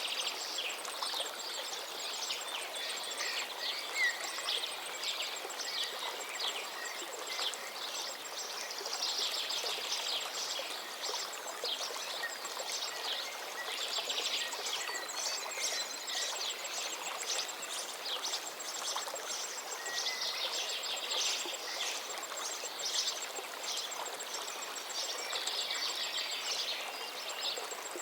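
Forest river flowing steadily, with several songbirds singing over it in quick, overlapping phrases, including a thin, high repeated trill.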